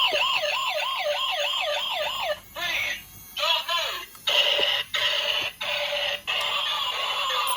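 Toy police car robot playing its electronic siren sound effect through a small tinny speaker: a warbling wail that rises and falls about three times a second, then changes pattern, broken by several short gaps.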